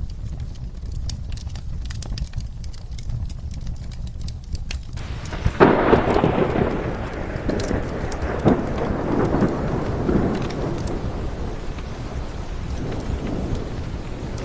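Steady rain with fireplace logs crackling. About five seconds in a thunderclap breaks and rolls away over several seconds.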